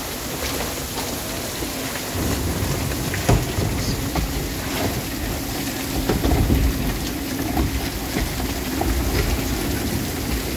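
Heavy storm rain pouring steadily onto the water and the houseboat's canopy roof. Low rumbling swells rise about two seconds in and again around six seconds in, and there is a sharp knock about three seconds in.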